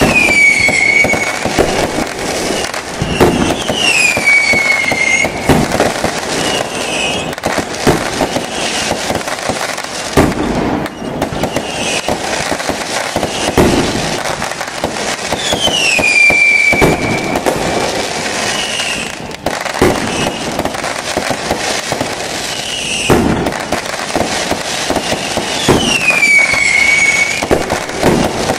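Fireworks display: dense crackling and popping with frequent sharp bangs. A whistle that falls in pitch and then holds briefly recurs every few seconds.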